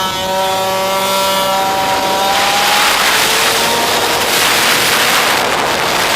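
Pit bike engine running, its pitch easing slightly down over the first two seconds, then largely covered by a loud rushing noise for a few seconds.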